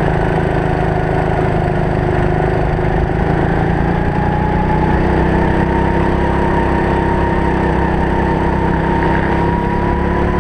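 Race kart engine running at a steady, moderate speed, heard from the driver's helmet camera; its pitch rises slowly over the second half.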